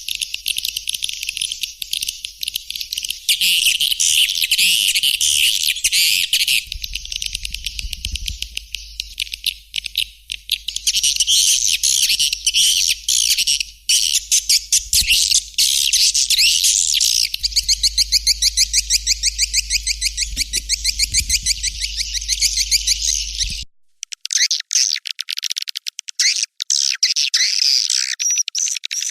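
Swiftlet lure recording: white-nest swiftlets twittering in dense, rapid high chirps, the kind of call track played through speakers to draw swiftlets into a nesting house. About 24 seconds in, it cuts to a thinner, sparser run of chirps.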